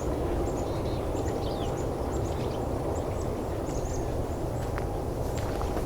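Small mixed finch flock of pine siskins and American goldfinches with a purple finch, giving many short, high chirps and twittering calls over a steady low rushing background.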